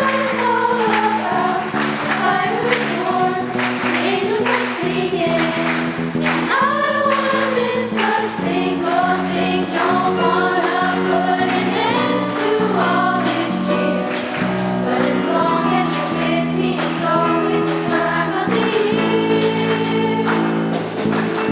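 Middle school choir singing a song over instrumental accompaniment with a steady beat.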